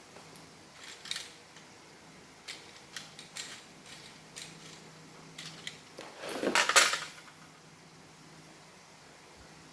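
Hard parts of a Roomba robot vacuum being handled during reassembly: a series of light clicks and taps, then a louder scraping clatter about six to seven seconds in.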